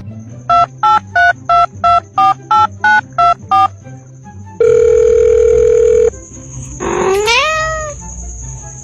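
Telephone keypad dialing: about eleven quick two-tone beeps in a steady run, then a single long steady phone tone lasting about a second and a half. Near the end a cat meows once, rising in pitch, over a faint high-pitched whine.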